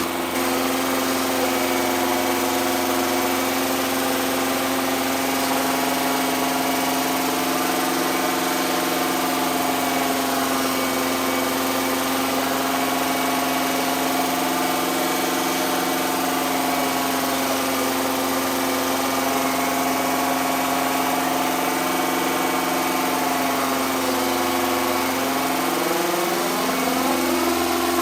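Engine running at a held fast idle for camshaft break-in, its speed wavering slightly. The revs sag about three-quarters of the way through, then pick up sharply near the end.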